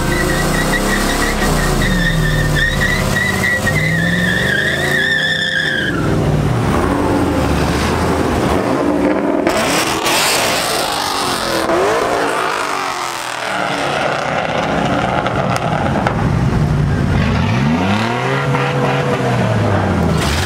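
Truck engine revving hard, its pitch rising and falling again and again, with tires squealing in a wavering high tone for about the first six seconds.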